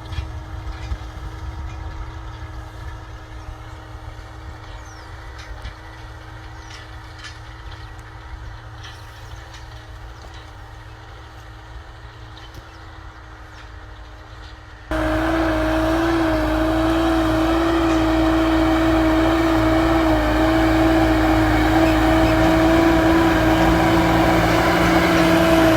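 Solis 110 HP tractor's diesel engine running steadily at work with an even hum. About halfway through the sound jumps suddenly louder and fuller and stays that way.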